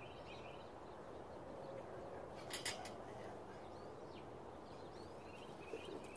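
Faint outdoor background noise with distant birds chirping now and then, and a quick pair of sharp clicks about two and a half seconds in.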